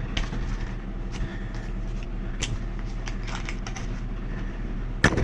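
A steady low machine hum with scattered light clicks and knocks as metal gas fittings and tools are handled, and a quick cluster of louder clicks near the end.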